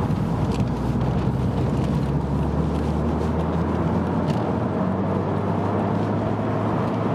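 Mercedes-Benz SLK200 Kompressor's supercharged 2-litre four-cylinder engine pulling steadily under way, heard from inside the open-top cabin with steady road and wind noise.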